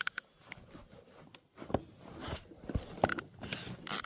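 Scattered clicks and short scrapes of fishing tackle being handled while a bass is played on a spinning rod.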